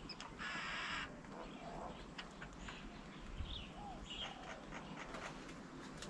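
Wild birds calling: one harsh rasping call lasting about half a second near the start, then scattered short chirps and brief calls from several birds.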